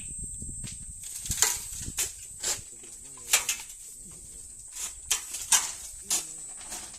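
Gravel and sand being loaded into a dump truck: sharp, irregular scrapes and knocks of stones roughly every half second to second, after a low rumble in the first second, over a steady high-pitched whine.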